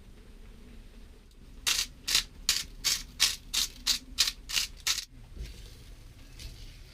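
A run of about ten short, regular rasping strokes, about three a second, stopping after a few seconds.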